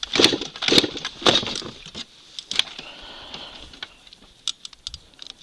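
Dry brush and twigs crunching and snapping in a string of irregular crackles, strongest over the first three seconds, then fainter scattered snaps.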